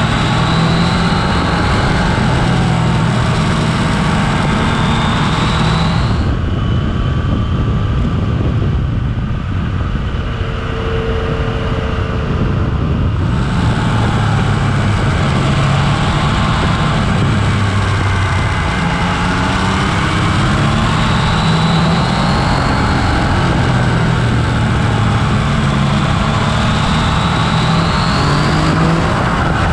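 Yamaha Tracer 900's three-cylinder engine running at road speed, its note rising and falling as the throttle is rolled on and off through the bends, over steady wind noise.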